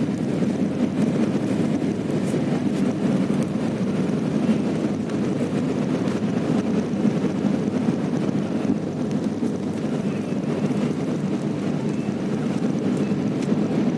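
Steady rumble of an airliner's engines and rushing air, heard from inside the passenger cabin during takeoff.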